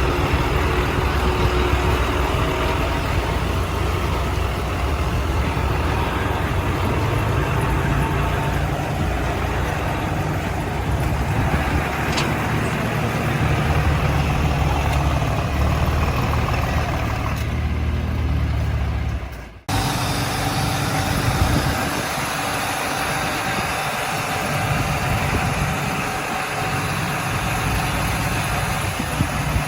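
Heavy diesel earthmoving machinery running steadily with a deep engine rumble. About twenty seconds in the sound breaks off for an instant, then continues with far less low rumble.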